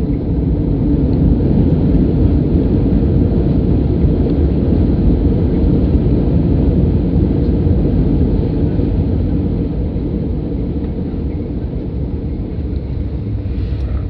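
Steady low cabin rumble of a Boeing 737-800 rolling on the ground after landing, easing somewhat about two-thirds of the way through.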